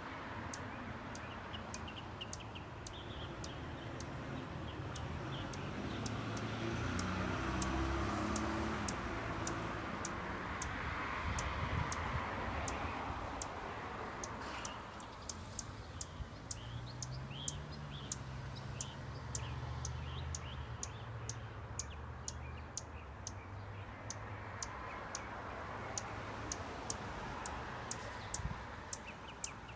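Hummingbird singing: a long run of sharp, high ticking notes, about one or two a second, mixed with faint thin squeaks. A low steady rumble runs underneath.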